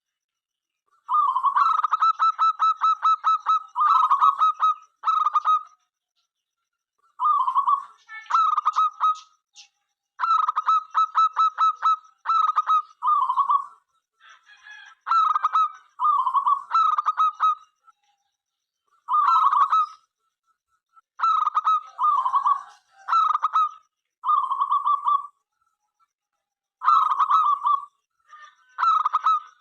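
Zebra dove (perkutut) singing its rapid, stuttering coo in repeated bouts, with short silent pauses between them.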